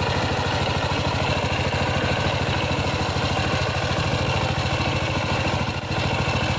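Power tiller's single-cylinder diesel engine running steadily with an even, rapid beat, with a brief dip in level near the end.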